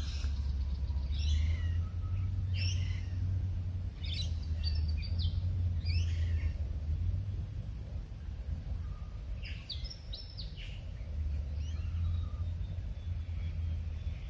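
Wild birds calling, a string of short, scattered high calls with gaps between them, over a steady low rumble.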